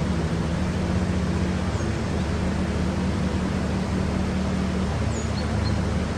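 Steady low machine hum over a noise bed, with a few faint high chirps about a second in and again near the end.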